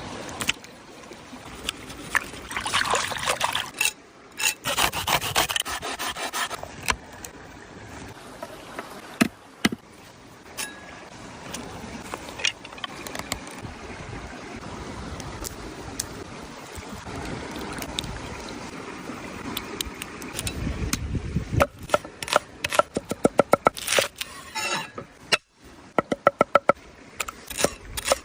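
Hand-work sounds of scraping and rubbing, with scattered sharp clicks and knocks, a low rumble about two-thirds of the way through, and a fast run of clicks near the end.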